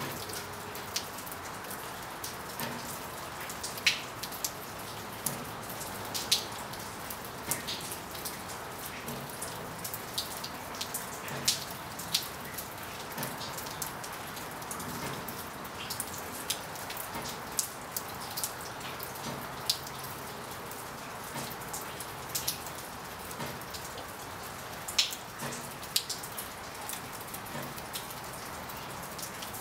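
Steady rain falling in a storm, an even hiss with frequent sharp, irregular taps of single drops landing close by.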